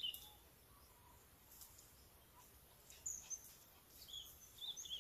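Faint birds chirping in short, high calls: one louder chirp right at the start, then scattered chirps that grow more frequent in the last two seconds.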